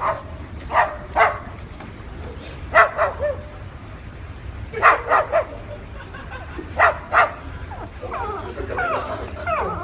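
Dog-like barks in quick pairs and threes, about every two seconds, then a wavering, whining call near the end.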